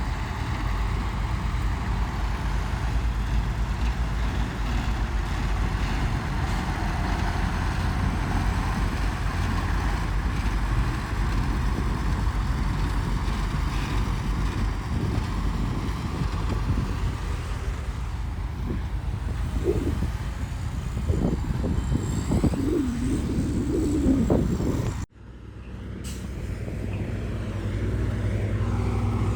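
Heavy diesel earthmoving machinery running steadily with a deep rumble, with a few short squeals a little past the middle. The sound cuts out abruptly near the end and fades back in.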